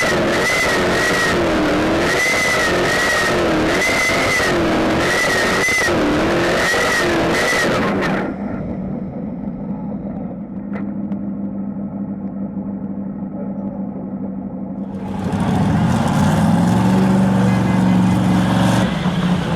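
Tractor-pulling engine running loud with a whine that rises and falls about once a second. It drops suddenly to a quieter, muffled, steady engine note, then revs up again with a rising note about three-quarters of the way through.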